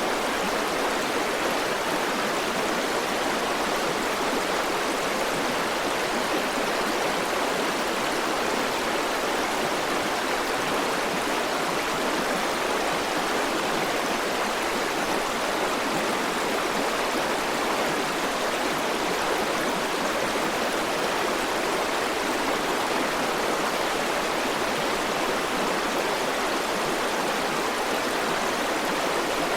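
River water rushing and burbling over rocks, a steady even flow without pauses.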